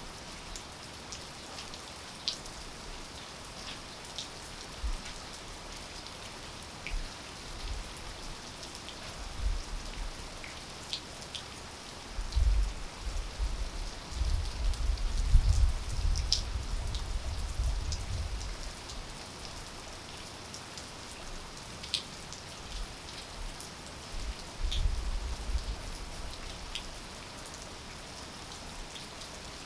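Steady rain falling: an even hiss with scattered sharp drops ticking. Bursts of low rumbling come in about twelve seconds in, loudest around fifteen seconds, fading by eighteen, and briefly again around twenty-five seconds.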